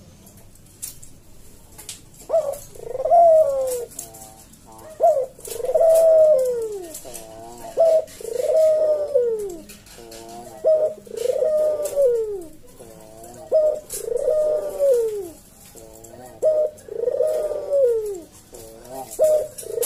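Barbary dove (Indonesian puter) cooing in its repeated bow-coo. From about two seconds in, each phrase is a short note followed by a long, arching coo that falls away at the end, about every two and a half seconds.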